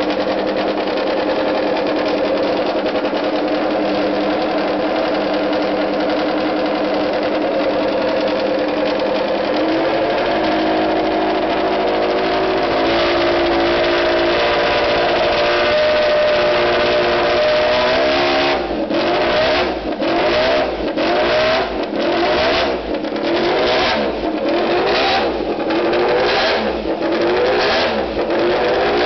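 Honda MotoGP race bike engines running on paddock stands during warm-up: a steady high idle that steps up in pitch a couple of times. Then, about two-thirds of the way through, the engines break into a rapid series of throttle blips, revving up and dropping back about one and a half times a second.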